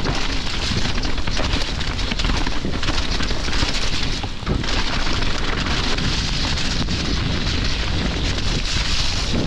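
Loud, steady rushing noise with a heavy low rumble, the sound of rain and wind buffeting the microphone on a wet trail during a thunderstorm. It dips briefly about halfway through.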